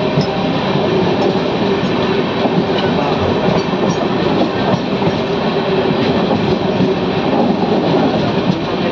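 Passenger train running past on the rails, with a steady rumble and the clatter of its wheels.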